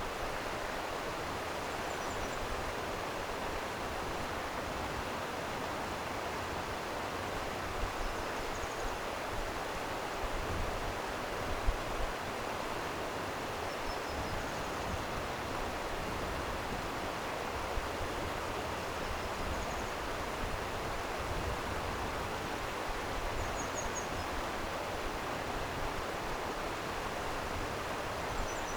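Steady rush of flowing stream water, with faint short high chirps every few seconds.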